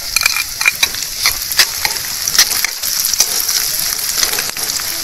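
Garlic frying in hot cooking oil in a pan: a steady sizzling hiss, with a utensil repeatedly clicking and scraping against the pan as it is stirred.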